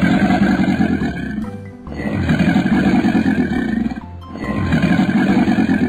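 Animated crocodile's growling sound effect, repeated three times in rough bursts of about a second and a half each, over background music.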